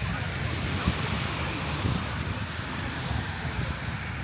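Steady wash of beach surf, with wind buffeting the microphone as a low, uneven rumble.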